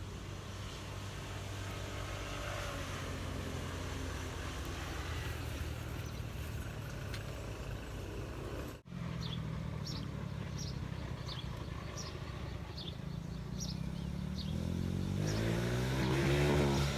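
Road traffic engine hum, with a vehicle passing close near the end, its pitch bending as it goes by. A bird chirps over and over in the second half, and the sound drops out for an instant about nine seconds in.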